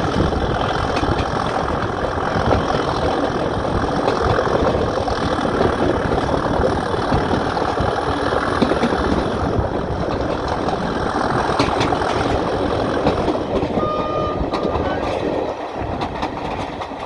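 Heritage diesel locomotive running, a loud, steady engine and rail noise that eases slightly near the end.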